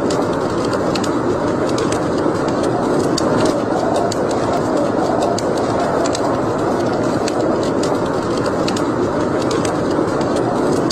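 Wood fire burning in a fireplace: a steady rushing noise with frequent, irregular sharp crackles and pops.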